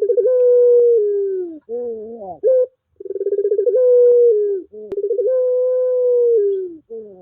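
Puter pelung dove cooing: three long drawn-out coos, each starting with a fast fluttering trill, held on one pitch and sliding down at the end, with short rising rolling notes between them.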